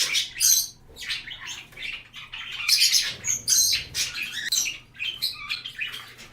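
Budgerigars chirping and chattering: many short, high calls in quick succession.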